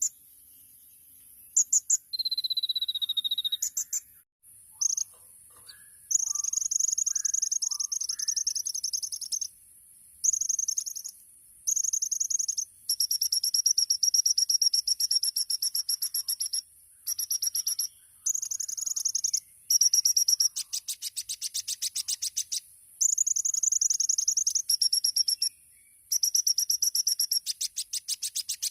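Kolibri ninja sunbird singing: very high, rapid buzzing trills and sustained high notes in repeated phrases of one to three seconds, separated by short pauses.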